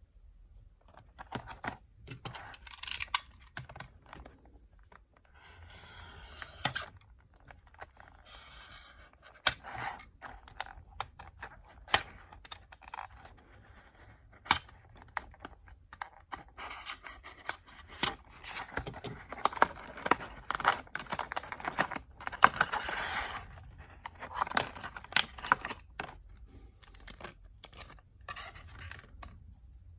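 Plastic blister packaging and card of a diecast toy car being handled and opened: irregular crinkling and scraping with sharp clicks, busiest about two-thirds of the way through.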